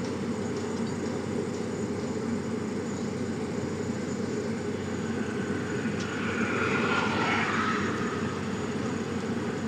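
Heavy diesel engine running steadily, with a louder, brighter swell of engine and hydraulic noise about six to eight seconds in.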